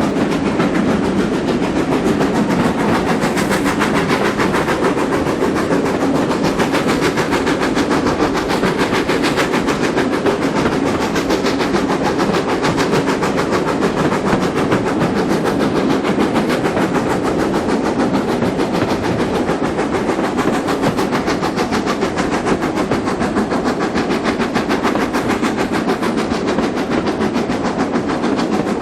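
Steam-hauled passenger train running along the line: a steady, loud rumble of wheels on the rails with a rapid, even clatter throughout.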